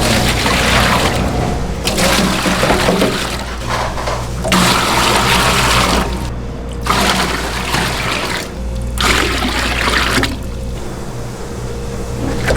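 Water running or splashing in about five separate gushes of one to two seconds each, with short breaks between them, over a steady low machine hum.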